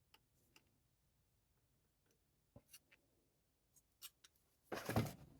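Faint clicks and light scratching of pliers working a small metal hinge leaf as it is bent straight, with a louder handling thump near the end.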